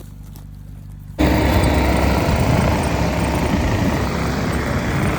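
A vehicle engine running at a steady low hum, then about a second in a much louder engine noise with heavy rumble and noise cuts in abruptly and holds.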